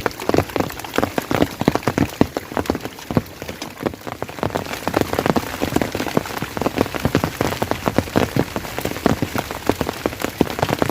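Rain falling steadily, with a dense, irregular patter of sharp drop taps.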